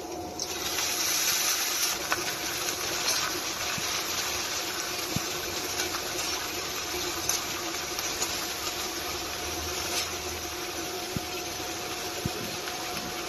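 Sliced onions, garlic and chillies sizzling in hot oil in a nonstick pan: a steady hiss that grows louder about a second in, with scattered light clicks of a spoon stirring against the pan.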